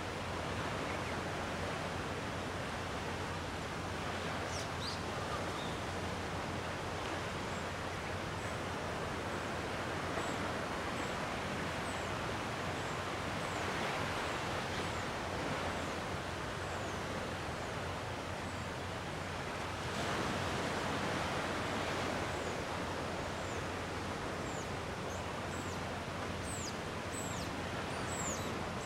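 Gentle sea waves washing on the shore: a steady hiss that swells a little now and then. Short, high bird chirps come and go throughout, more often near the end.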